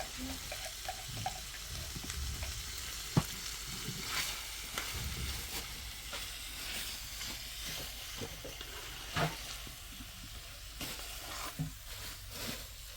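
A steady hiss with scattered light clicks and knocks; a sharp click about three seconds in and a louder knock about nine seconds in.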